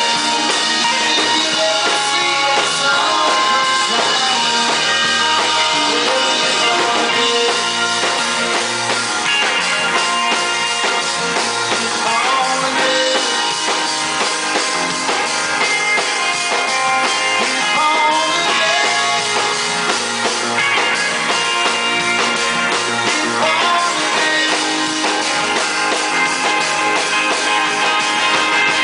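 Live rock band playing an instrumental passage of a song, drum kit and guitars going at an even level.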